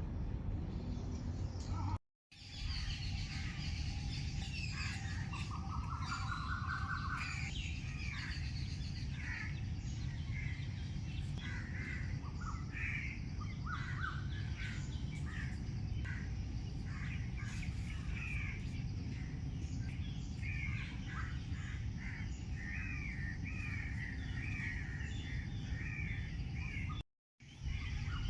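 Many wild birds calling, with short repeated calls and a quick rising trill about five seconds in, over a steady low rumble of background noise. The sound drops out for a moment about two seconds in and again near the end.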